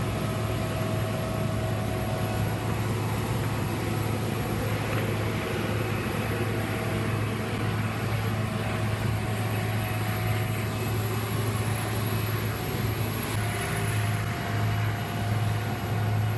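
The engine of a heavy road-repair machine running steadily, a constant low drone with a faint high whine above it.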